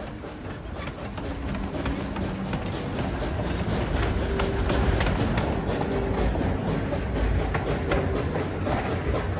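Tweetsie Railroad passenger train rolling along the track, its wheels clicking over the rail joints with a low rumble. It grows louder over the first few seconds, then runs steadily.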